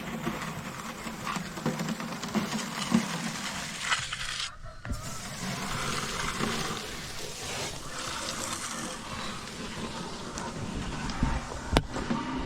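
Hand tools scraping and working wet concrete, a steady gritty rasping with small clicks, broken briefly about four and a half seconds in.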